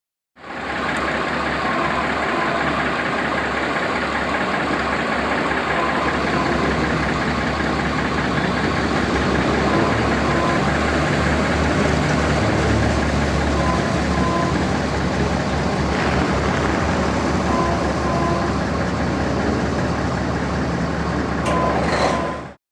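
A heavy truck engine running steadily.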